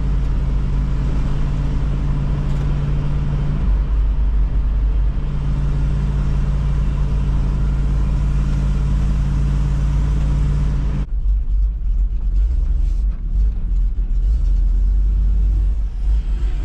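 Farm dump truck's engine running as it drives, a steady low drone; about eleven seconds in the engine note drops away, leaving a low rumble.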